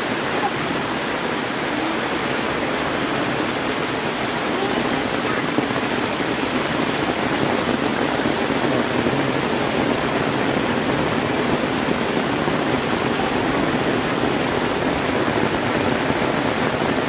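Heavy rain pouring down steadily, a dense, even hiss with no break.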